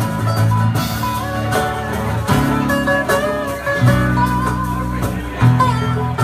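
Live band playing an instrumental passage: a guitar lead line over bass and drums.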